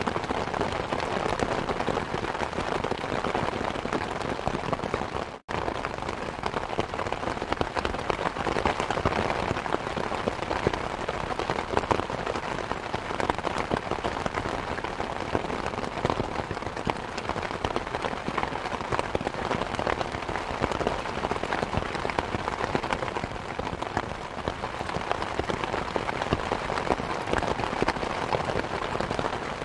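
Steady rain mixed with a crackling fireplace, a dense hiss full of small pops and ticks. The sound cuts out for an instant about five seconds in.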